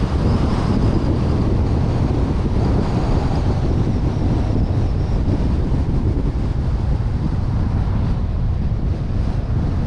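Wind buffeting the microphone of a suction-cup-mounted action camera on a moving vehicle, over a steady low rumble of road and engine.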